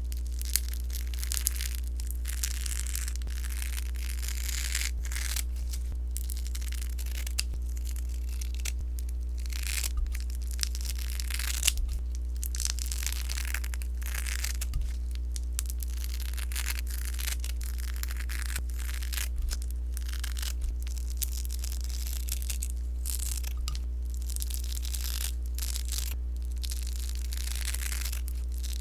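Sponge slime being squeezed and worked by hand, giving dense, irregular crackling and popping with the odd sharper pop, over a steady low hum.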